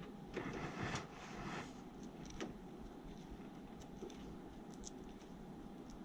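Rustling handling noise for about a second near the start, then a few light clicks, over a steady faint hum.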